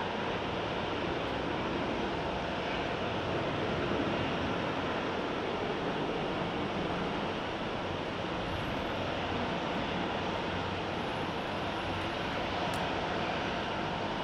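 Jet airliner engines running with a steady rushing noise that holds an even level.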